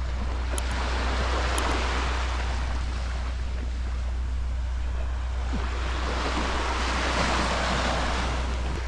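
Sea waves washing onto a sandy beach, swelling twice, over a steady low rumble.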